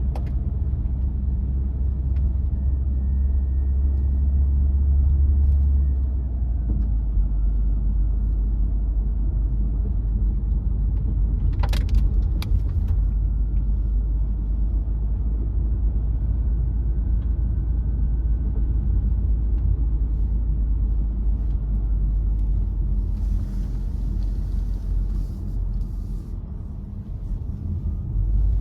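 Car driving: a steady low rumble of engine and tyre noise, easing a little about six seconds in, with a few sharp clicks about twelve seconds in and a brief hissing rush near the end.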